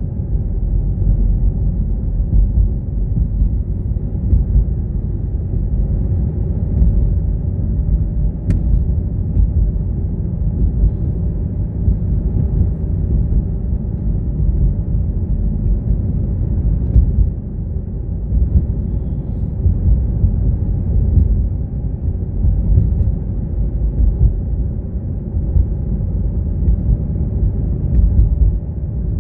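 A car being driven: a steady, low, muffled rumble of road and engine noise, with one brief tick about eight and a half seconds in.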